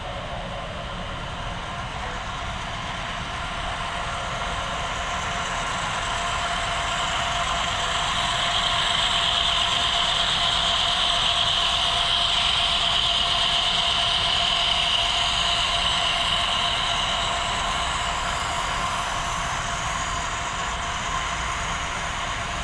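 HO scale model train running past on the layout: a steady rolling and motor whine that grows louder toward the middle and then fades as it moves away.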